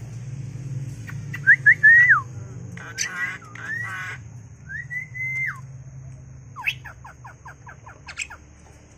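A bird calling in clear whistled notes that rise, hold and drop in pitch, then a quick series of short, falling notes near the end.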